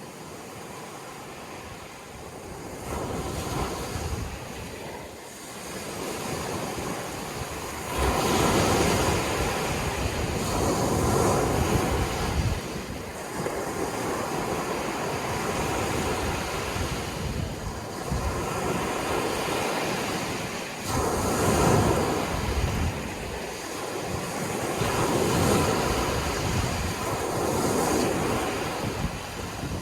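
Sea surf breaking on a shore, waves swelling and washing in one after another every few seconds, louder from about eight seconds in.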